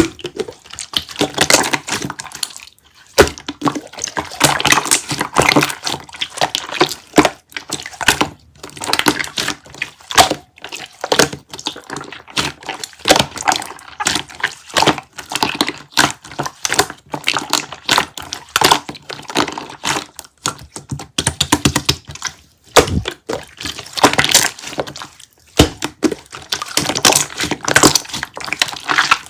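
Close-up eating of melon jelly: rapid wet, sticky clicks and crackles of biting and chewing, with a few short pauses.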